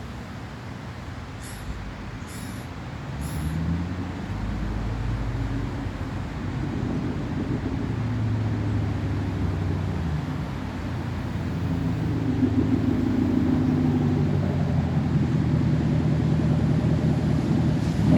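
Straight-piped 2019 Camaro SS's 6.2-litre V8 running through an open exhaust, its note shifting in pitch several times and growing louder over the stretch. There are a few faint ticks in the first few seconds.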